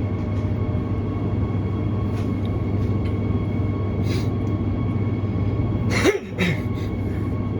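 Cabin sound of a Transperth B-series electric multiple unit moving very slowly: a steady low rumble with constant motor whine tones above it. About six seconds in comes a brief sharp noise with a quickly falling squeal.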